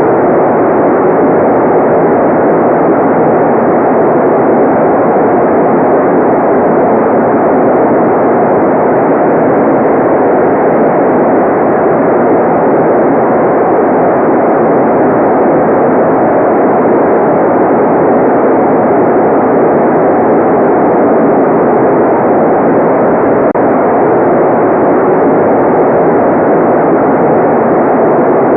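Steady white-noise track for relaxation: an even, unchanging rush of noise that is strongest in the lower middle range, with the high hiss filtered away, giving a soft, dull sound.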